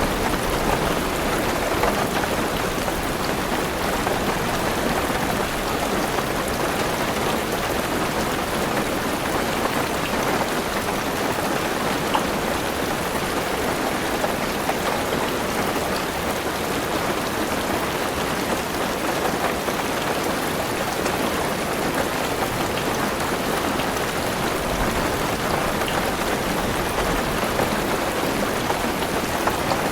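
Heavy rain falling steadily on a car's roof and windows, heard from inside the car as an even patter with scattered drop ticks.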